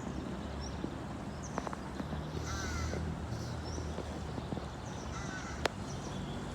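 Birds calling over a steady low background rumble: two short calls, a few seconds apart, and a sharp click near the end.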